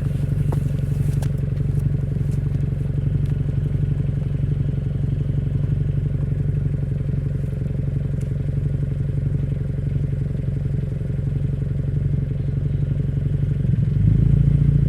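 A Toyota 86's engine idling steadily through its exhaust muffler, with a low, even pulse. A few light clicks come in the first second or so, and the idle lifts slightly near the end.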